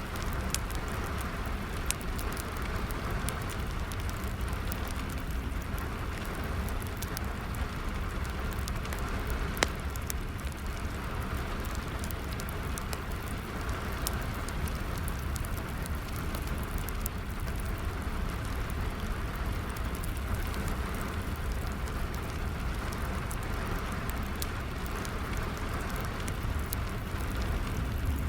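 Steady rain falling, mixed with a crackling wood fire giving scattered sharp pops, one louder pop about nine and a half seconds in.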